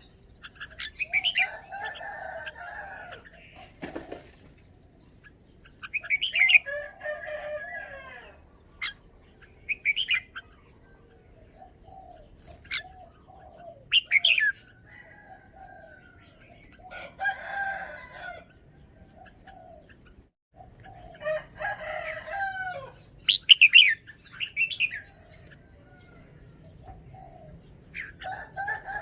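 Red-whiskered bulbul singing: short warbled phrases of sharp, quick whistled notes, repeated every few seconds with pauses between them.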